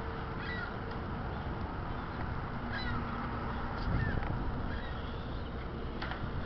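A few short, falling bird calls over a steady low rumble, which swells briefly about four seconds in.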